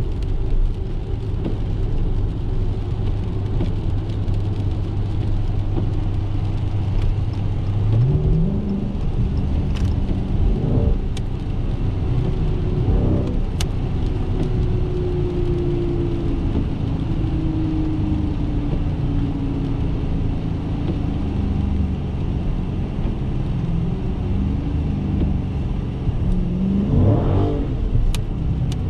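Dodge Challenger 392 Scat Pack's 6.4-litre HEMI V8 running under way. Its pitch climbs as it accelerates about eight seconds in, it gives a few quick rev blips, and it drones down slowly as the car coasts.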